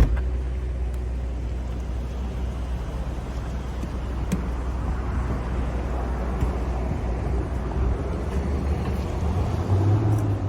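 Street traffic: a steady low rumble of vehicle engines, with one engine note rising near the end. A sharp knock right at the start.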